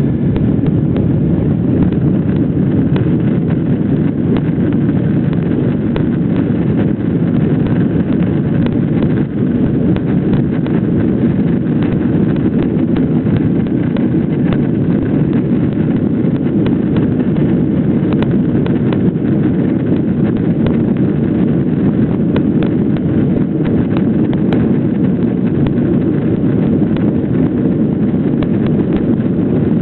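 Airliner cabin noise: a loud, steady low rumble of jet engines and airflow, with frequent small rattles and clicks throughout.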